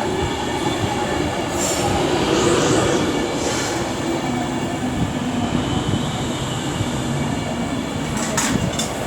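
Class 390 Pendolino electric train running slowly into the platform with a steady rail rumble. Brief high squeals come about two to four seconds in, and a few sharp squeaks near the end.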